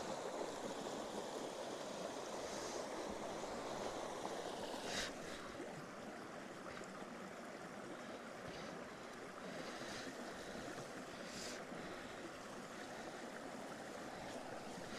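Small campfire of damp sticks just catching, giving a few sharp crackles over a steady rushing noise.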